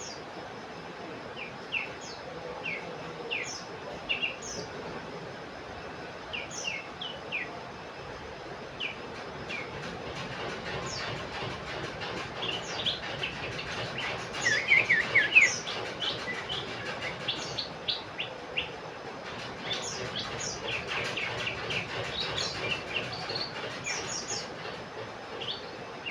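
Common iora (cipoh) calling: many short, quick chirps and whistled notes, scattered at first and then coming in a dense, louder flurry about halfway through, over a steady background hiss.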